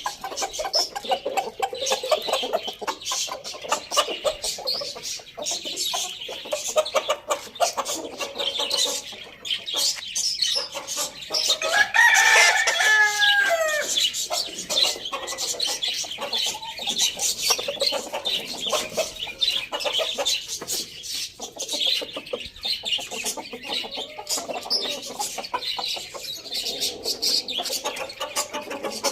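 Chickens clucking steadily, with a rooster crowing once near the middle for about two seconds.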